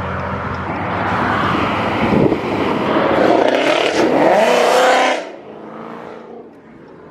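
A car accelerating hard, its engine pitch rising, then dropping away sharply about five seconds in.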